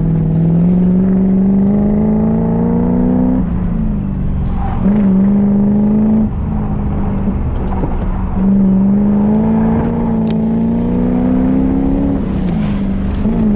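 Car engine pulling hard in a competition run: its pitch climbs steadily for about three seconds and drops sharply, twice, with shorter steady stretches in between, as the driver accelerates and lifts off between corners.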